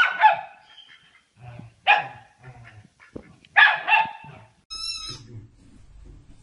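A dog barking: one bark at the start, another about two seconds in and a quick double bark a little later, followed near the end by a brief high-pitched wavering squeal.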